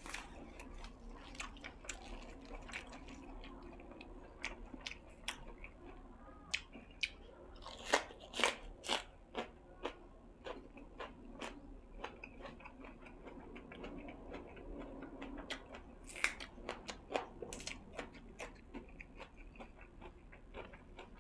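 A person chewing food close to the microphone: wet chewing with sharp crunches and mouth clicks throughout, the loudest clusters of crunches about eight and sixteen seconds in.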